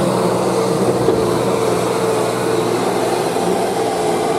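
Heavy truck engine running steadily, with a constant low drone and a steady higher whine over it.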